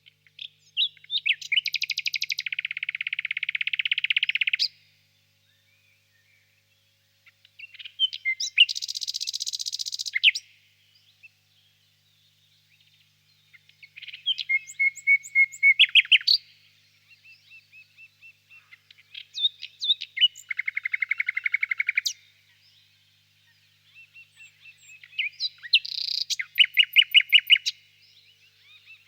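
Nightingale singing: five separate song phrases, each a few seconds long, built of rapid repeated notes and trills, with pauses of up to about three seconds between them.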